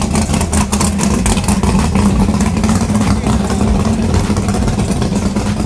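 A car engine running loudly and steadily with a constant low hum and an uneven crackle over it.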